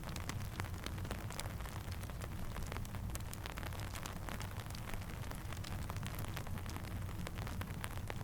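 Steady rain falling, with a dense patter of small sharp ticks over a low, even rumble.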